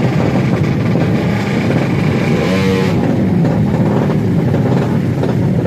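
Tuned drag-race motorcycle engines running loud at high revs, with one engine rising and falling in pitch as it sweeps past about two and a half seconds in.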